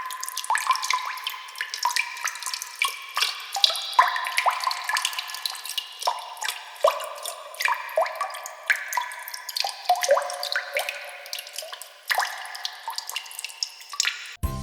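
Water dripping: an irregular patter of many drops, each a short rising plink, with a brief lull about twelve seconds in.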